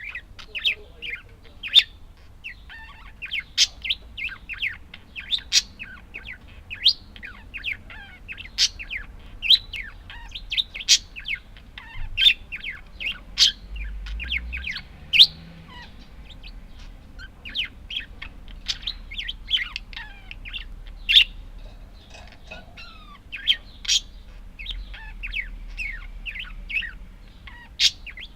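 Budgerigars chirping and chattering: a continuous run of short, sharp, high chirps, several birds calling over one another.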